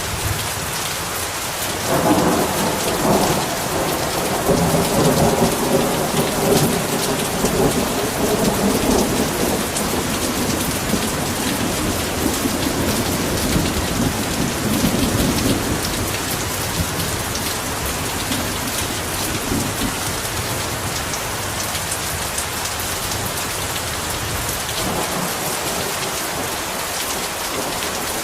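Heavy rain falling steadily, with a long roll of thunder rumbling in about two seconds in and fading away over some fourteen seconds, and another rumble starting near the end.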